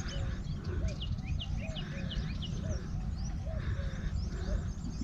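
Several wild birds calling together: many quick high, downward-sliding chirps, and a lower call repeated about twice a second. A steady low rumble runs under them.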